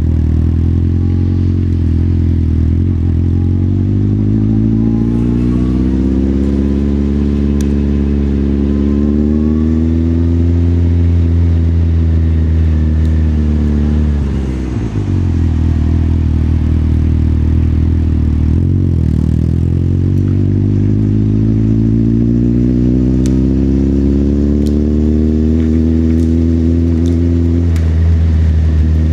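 Motorcycle engine heard from the rider's seat, its note climbing as it accelerates. About halfway through the pitch drops suddenly as the throttle eases, then rises steadily again.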